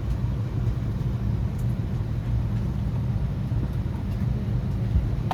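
Steady low rumble inside an Airbus A321neo cabin.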